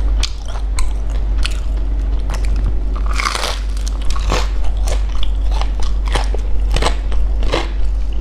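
Close-miked biting and chewing of a crispy deep-fried snack: crunching with many sharp crackles, and one larger crunching bite about three seconds in.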